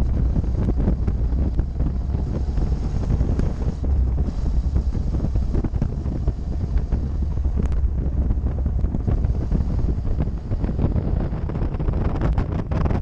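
Heavy wind buffeting a motorcycle-mounted action camera's microphone at riding speed, with the motorcycle's engine running underneath as a steady low rumble.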